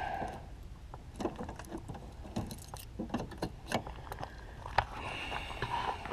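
Scattered light clicks and knocks of handling, irregular and short, before the engine is started.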